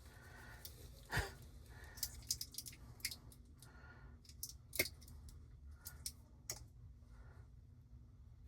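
Scattered light clicks and rattles of small hand tools and thermostat wire being handled, over a steady low hum.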